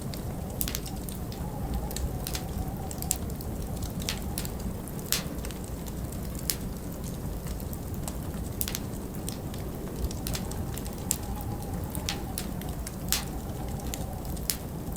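Wood fire crackling, with irregular sharp pops and snaps, over a steady low rush of wind that rises and falls in a faint howl.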